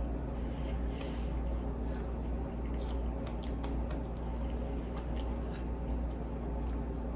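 Quiet chewing of soft chocolate cake, with a few light clicks and scrapes of a metal fork against a china plate as more cake is cut, over a steady low hum.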